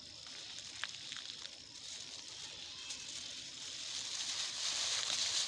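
Rustling and crackling of old plastic and undergrowth being handled, growing steadily louder, with a few light clicks about a second in.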